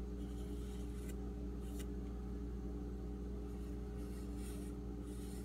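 Steady electrical hum, with a few faint scratching strokes of a Sharpie marker being drawn along the steel knife edge.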